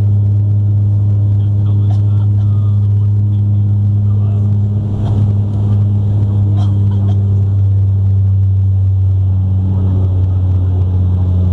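Bombardier Q400 turboprop heard from inside the cabin, its propellers giving a steady loud drone with a deep hum at its core and fainter overtones above it.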